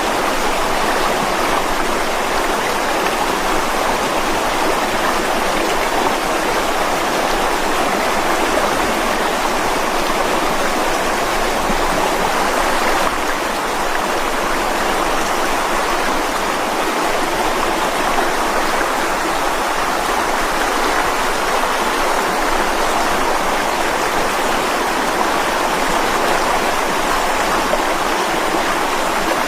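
Mountain stream water flowing and splashing over rocks, a steady rushing sound with no pauses.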